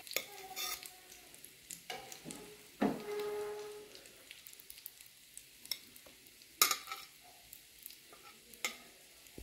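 Chicken-and-dal shami kebabs sizzling in shallow oil in a frying pan, with sharp clicks of metal tongs as the fried kebabs are lifted out and set on a plate, the loudest about two-thirds of the way through.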